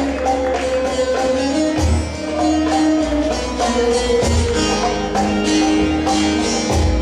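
Turkish folk music ensemble playing an instrumental passage: a plucked-string melody, typical of the bağlama (saz), over a steady frame-drum and tambourine beat, with a deeper drum stroke about every two and a half seconds.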